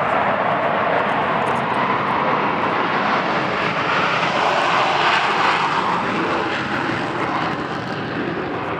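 Four Blue Angels F/A-18 Hornet jets roaring past on an afterburner takeoff. The roar swells to a peak about halfway through, then eases off.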